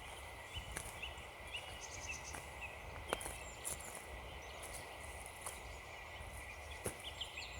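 Footsteps crunching on frozen ground at irregular intervals, with small birds chirping in the background.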